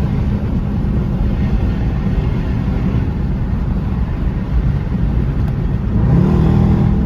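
Dodge Charger R/T's V8 engine and exhaust droning steadily while driving, with the engine note rising about six seconds in as the car accelerates.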